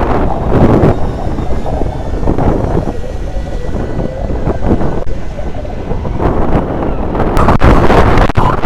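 Loud wind buffeting the microphone, a gusty rumble that swells and eases, typical of riding along on an electric scooter.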